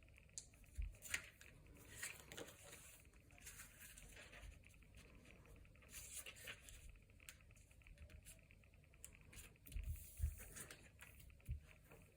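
Quiet crafting handling sounds: intermittent paper rustling and crinkling, with a few soft taps and knocks, the loudest about ten seconds in.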